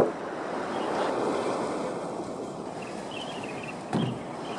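Wind and water noise aboard a fishing boat, with a sharp knock at the very start and a duller, deeper thump about four seconds in.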